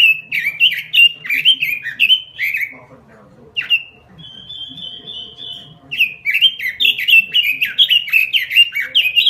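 Pekin robin singing vigorously: a fast run of sliding whistled notes, about three a second. The run breaks off briefly about a third of the way in and is followed by a short fast trill, then the rapid warbling resumes.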